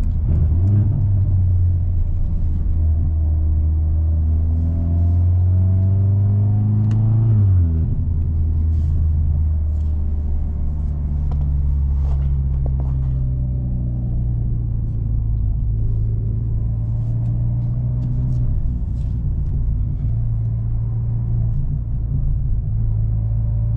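Mercedes-AMG C43 (W206) turbocharged four-cylinder with a Fi aftermarket exhaust and catless downpipe, giving a steady low exhaust drone while driving. Its pitch climbs for a few seconds, then drops suddenly about seven seconds in, and a steady low drone follows.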